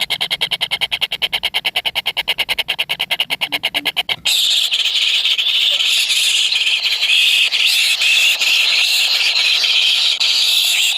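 Kingfisher nestlings calling: a fast, even train of shrill pulses for about four seconds, then an abrupt switch to a continuous high-pitched squealing chorus.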